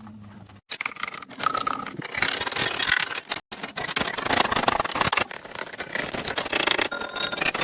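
Metal clattering, rattling and scraping from hands-on mechanical work, in short cut-together pieces, with a faint low hum before the first cut.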